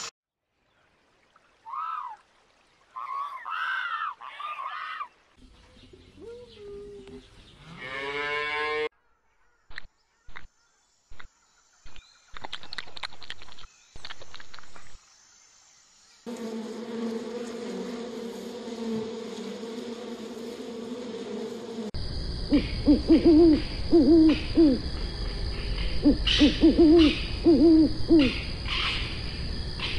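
Eagle-owl hooting: groups of repeated low hoots, the loudest sound, in the last third. Earlier come separate short sounds: high wavering calls, then a run of clicks.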